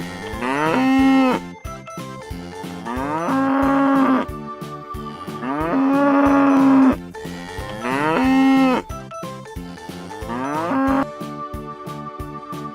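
Cow mooing five times, each moo gliding up in pitch and then held, the third the longest, with ordinary pauses between. A light background beat runs underneath.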